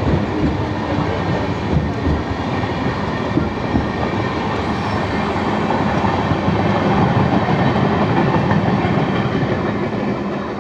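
Steady rumble of train wheels on rails with irregular clacks, heard from a moving electric suburban local train while an express train runs alongside on the adjacent track. The noise eases a little near the end as the express's last coach goes by.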